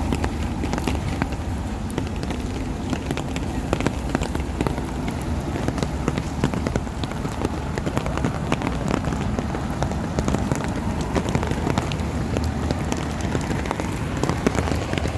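Steady rain falling, a dense hiss full of sharp drop taps over a low rumble.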